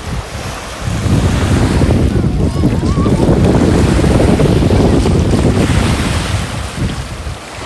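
Wind buffeting the microphone with a heavy low rumble, over the wash of sea waves on the shore; it eases off near the end.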